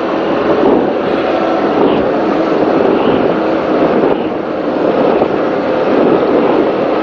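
Offshore race powerboat's engines running at speed: a loud, steady engine drone mixed with wind and water rush.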